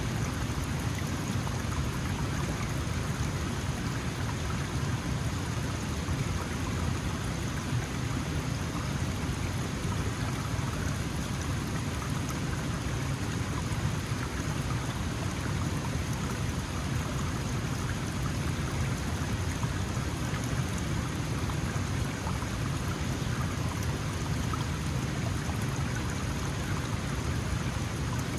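Small mountain stream, its water flowing and splashing steadily over stones.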